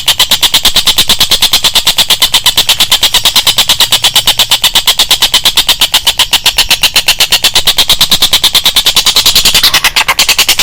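Rapid high-pitched trill from a songbird-training (masteran) recording, repeating at about eight pulses a second without a break.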